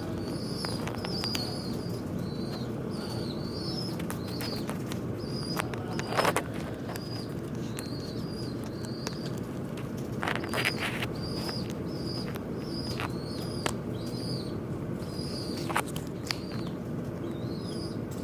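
Small birds fighting, chirping over and over in short, high, curved notes about twice a second. Several sharp knocks and flutters cut in, the loudest about six seconds in and again around ten to eleven seconds.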